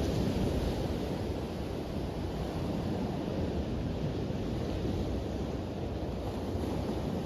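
Surf breaking and washing on a beach: a continuous rushing that swells right at the start, then holds steady.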